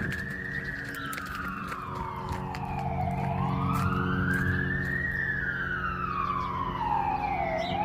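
Fire apparatus siren on a slow wail, sweeping down and back up about every five seconds, over a running engine, as the unit responds to a call.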